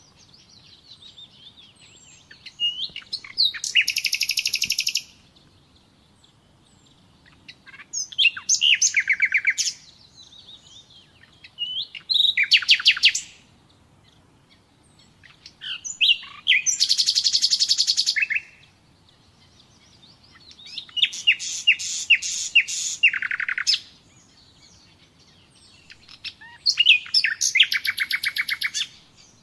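Common nightingale singing. Six loud phrases of rapidly repeated notes, each lasting one to three seconds, are spaced by pauses of a couple of seconds that hold soft, high notes.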